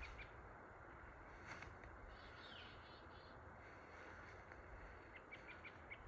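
Faint outdoor ambience with birds chirping here and there over a low rumble, with a quick run of short chirps near the end.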